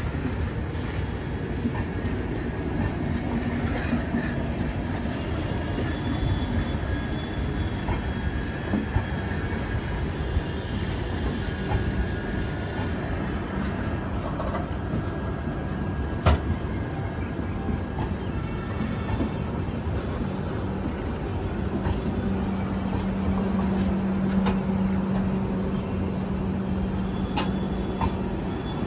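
Passenger train coaches rolling past close by: a steady rumble and clatter of wheels over the rails, with a faint high wheel squeal in the middle part and one sharp clack about sixteen seconds in. A low steady hum joins the rumble near the end.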